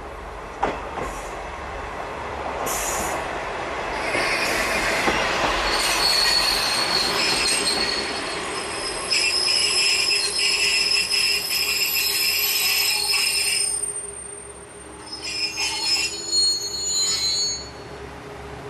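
KiHa 120 diesel railcar passing, first a rumble with a few sharp clicks over the rail joints, then its wheels squealing in high, steady tones for several seconds. The flange squeal drops off briefly near the end and returns before fading.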